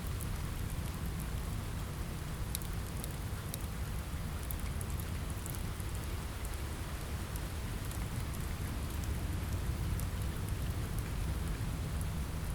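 Steady rain with a constant low rumble underneath, and scattered sharp crackles and pops from a fireplace fire.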